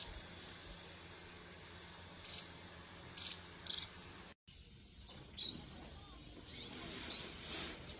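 Munia fledglings giving a few short, high chirps over a faint, steady cricket-like insect drone. The sound cuts out briefly about halfway through.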